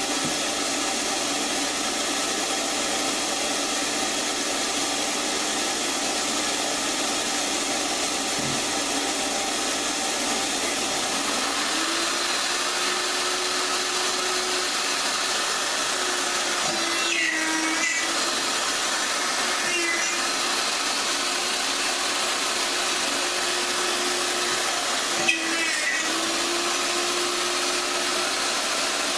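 Woodworking router running steadily under power, its whine dipping briefly a few times as the bit bites into the wood, with one sharp click about 25 seconds in.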